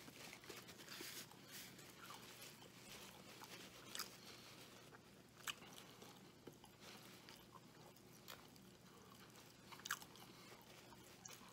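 Faint close-up chewing of a mouthful of bacon cheeseburger, with small wet mouth clicks and smacks; a few slightly louder clicks about four, five and a half, and ten seconds in.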